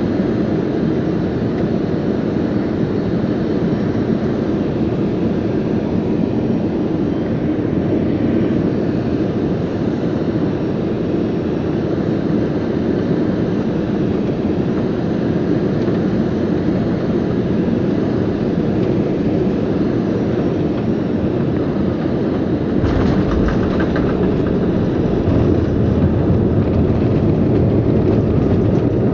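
Airbus A320 cabin noise on final approach: a steady rushing hum. About 23 seconds in comes a sudden jolt and rattle as the wheels touch down, then a louder low rumble of the landing roll.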